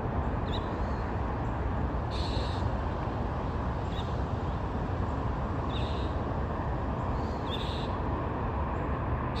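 About six short, high bird calls scattered over a steady outdoor rumble.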